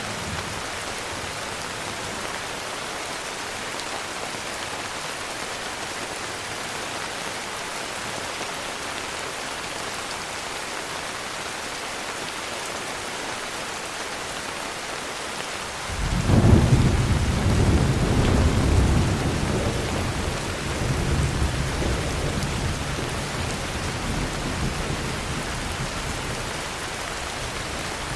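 Steady heavy rain hissing, with a peal of thunder breaking in suddenly about halfway through and rumbling on, slowly fading, to the end.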